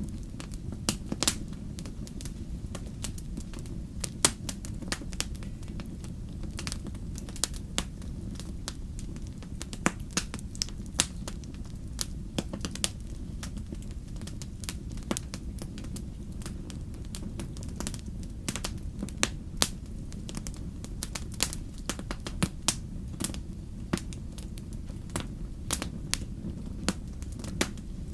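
Wood fire in a fireplace crackling: irregular sharp pops and snaps, several a second, over a steady low rush.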